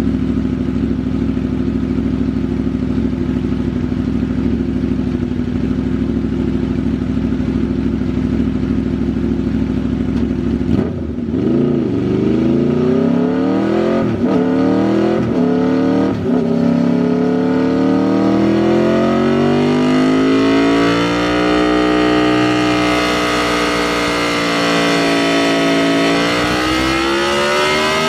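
2010 Aprilia RSV4 Factory's V4 engine through a Racefit slip-on exhaust, on a dyno run: it holds a steady note, then about eleven seconds in it is run up through the gears with four quick upshifts, and climbs in a long rising rev in the top gear.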